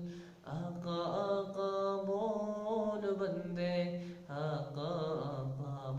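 Solo male voice chanting a hamad, an Islamic devotional hymn, in long held melismatic notes, with short breaks for breath about half a second in and about four seconds in.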